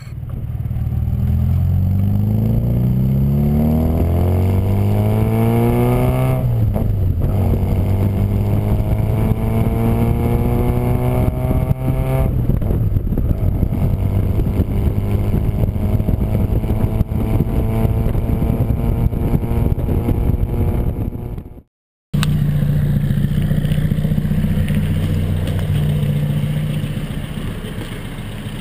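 Austin-Healey Sprite Mk1 'Frogeye' with a 1290 A-series four-cylinder engine and a single-box RC40 exhaust, heard from the open cockpit. It accelerates, rising in pitch through the gears, with an upshift about six seconds in and another around twelve seconds, then holds a steady cruise. After a short break about three-quarters of the way through, the engine idles steadily.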